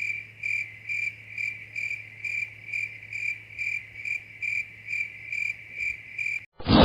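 A cricket chirping in an even rhythm, a little over two chirps a second, cutting off suddenly near the end.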